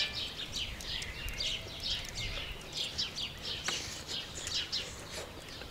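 Small songbirds chirping continuously in quick succession, each chirp short, high and falling in pitch.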